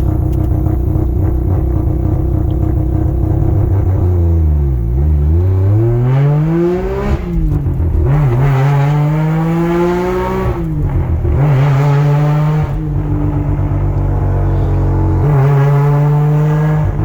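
Mazda RX-8's two-rotor rotary engine accelerating through the gears. Its pitch dips and then climbs, with a sudden drop at each upshift about seven and eleven seconds in, and holds steady near the end.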